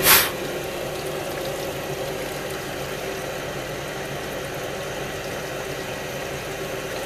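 Surface grinder running with a steady, even hum of its motors and hydraulics. A brief, loud noise burst right at the start.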